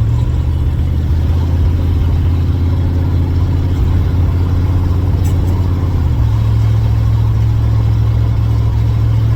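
Third-generation Chevrolet Camaro engine and exhaust running steadily, loud; the engine note changes to a slightly different steady pitch about six seconds in.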